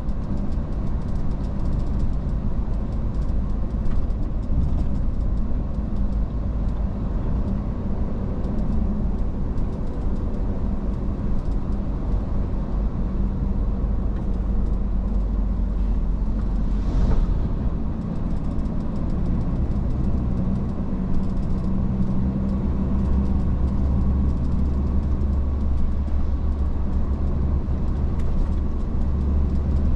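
Iveco S-Way truck on the move, with a steady low drone of engine and road noise. A brief louder rush of noise comes a little past halfway.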